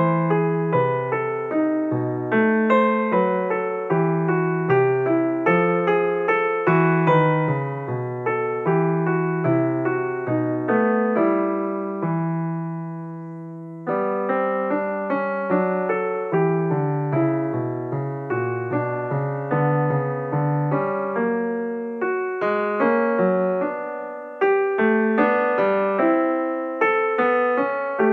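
Solo piano background music: a steady run of notes, with a held chord fading away about halfway through and another shorter fade near the end.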